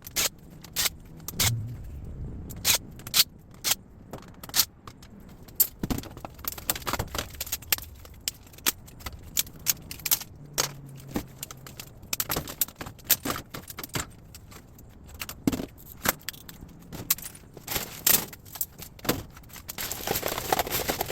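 Irregular clinks and clanks of small metal scrap pieces being handled and dropped, several short knocks a second at times with brief pauses between.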